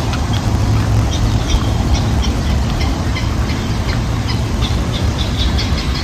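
Birds chirping in many short, quick notes among the trees, over a steady low rumble.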